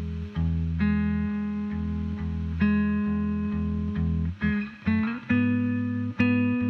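Electric guitar played clean through a 1987 Fender Twin Reverb amp fitted with new speakers, testing the replacement. The chords ring out and change every second or so, with a short slide about five seconds in.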